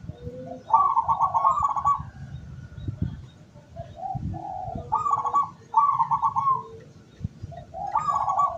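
Local zebra dove (perkutut) cooing: a series of rapid, trilling coo phrases with short pauses between them, used as a lure call.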